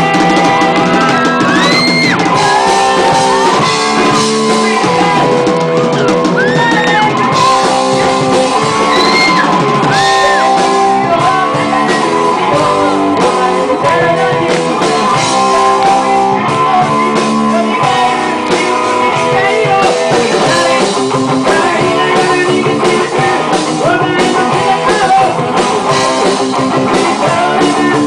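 A rock band playing a song with a sung vocal line over guitar, drums and keyboard.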